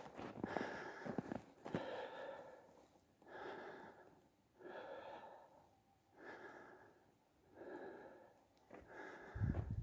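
A person breathing hard and rhythmically, about seven long, breathy in-and-out breaths with short pauses between, from the exertion of climbing uphill on foot through snow.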